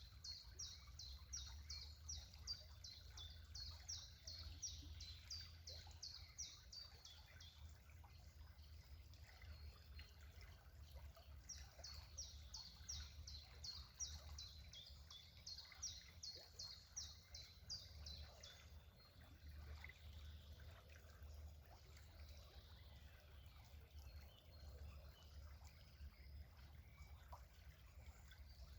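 A songbird singing long runs of high, evenly repeated notes, about three a second, in two phrases: one in the first seven seconds and another from about twelve to eighteen seconds in. A faint low rumble runs underneath.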